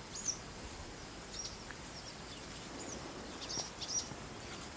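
Small birds giving short, high chirps, a handful of times, over a faint steady outdoor hiss.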